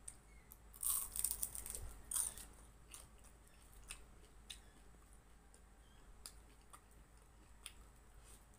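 Close-miked chewing of a crisp fried lumpia (spring roll), with a run of crunches in the first two seconds or so, then softer chewing with small mouth clicks and smacks.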